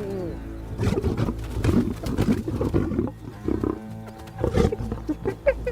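Lion growling and grunting in a string of short, uneven calls, over background music.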